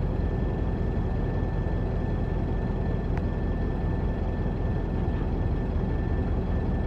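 Engine of heavy road-construction machinery running steadily, with a faint steady whine above the rumble and one brief click about three seconds in.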